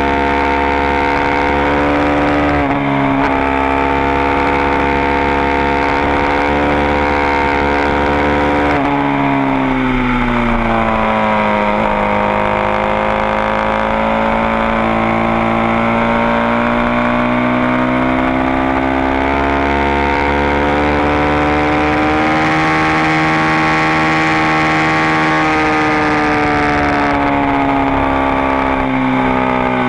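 Supermoto motorcycle engine running hard on track, heard from a camera mounted on the bike. The engine pitch holds high, drops as the throttle is eased about nine to twelve seconds in, then climbs slowly back and holds, easing off slightly again near the end.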